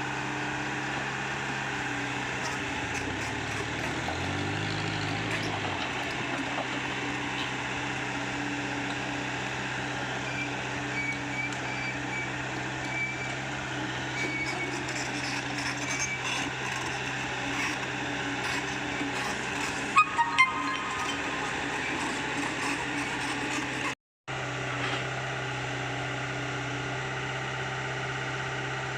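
Komatsu PC75UU compact excavator's diesel engine running steadily at work, its pitch rising briefly a few seconds in, with a few sharp metallic clanks about two-thirds through.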